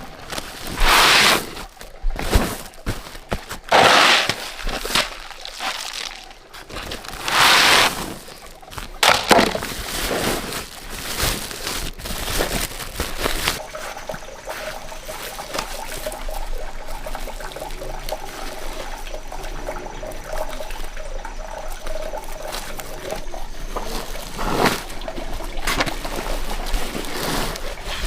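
Water pouring and sloshing in several separate splashes, then a steadier run of trickling.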